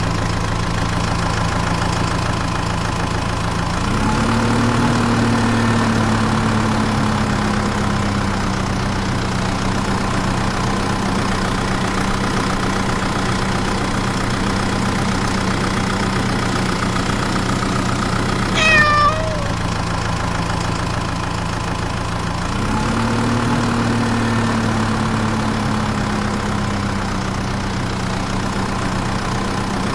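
A motor or engine running steadily with a low hum. Its pitch rises briefly and settles back twice, about four seconds in and again near the end. About two-thirds of the way through, a short, wavering high call sounds once.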